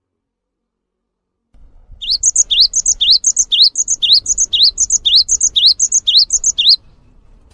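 A songbird repeating one short phrase about twice a second, some ten times over: a rising whistle followed by higher, thinner chirps. It begins after a stretch of silence and cuts off suddenly near the end.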